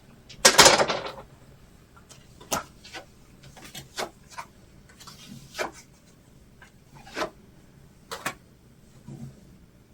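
Tarot cards being handled and drawn: a short, loud rustle of the deck about half a second in, then a series of separate light taps and slides as single cards are pulled and laid down.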